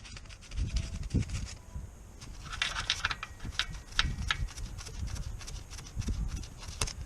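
Irregular knocks, clunks and clicks of tools and car parts being handled, with a run of sharper metallic clicks in the middle.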